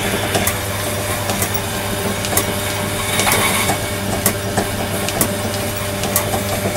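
A machine running with a steady hum, with irregular sharp clicks and crackles over it.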